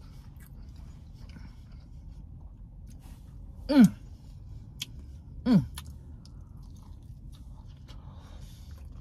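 A person chewing fried chicken with small wet mouth clicks and smacks, breaking into two short hums of enjoyment that fall in pitch, about four and five and a half seconds in.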